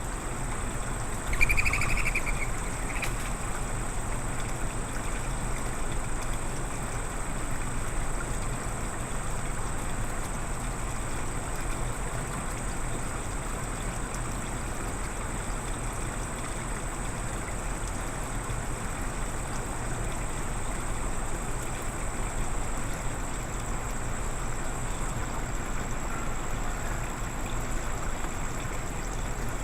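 Steady background rush with a thin high whine, and a short bird call about a second and a half in.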